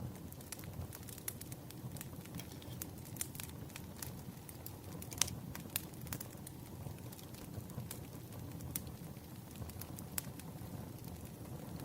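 Campfire crackling: a steady low rumble of burning wood under scattered sharp pops and snaps, the loudest pop about five seconds in.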